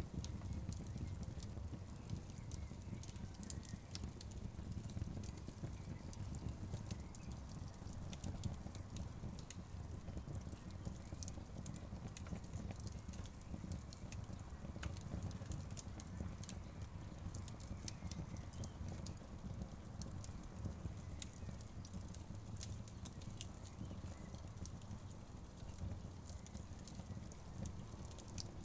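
Wood fire crackling, with scattered sharp pops and snaps over a steady low rumble of burning logs.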